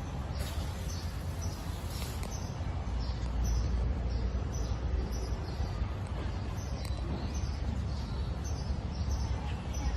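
Yamataha gas-fired hot-air burner running with a steady low roar. Short high chirps repeat about twice a second over it.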